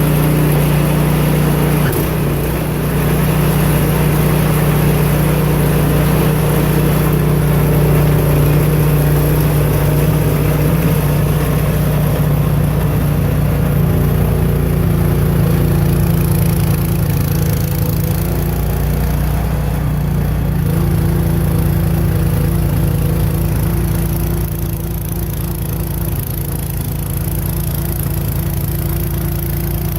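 Craftsman snow blower's small gasoline engine running steadily with its throttle at the fast (rabbit) setting, dropping slightly in level near the end.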